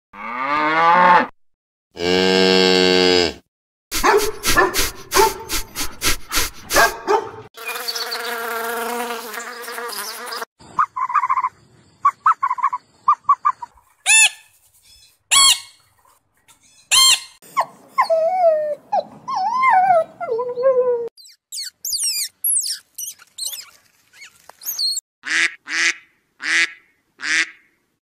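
A cow mooing in long, pitched calls, several times, followed by a budgerigar chirping and warbling in high, quick gliding notes.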